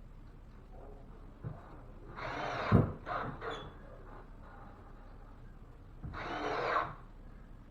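Cordless drill driving screws into wood backing, in two short runs about two seconds in and again about six seconds in, with a sharp knock at the end of the first run.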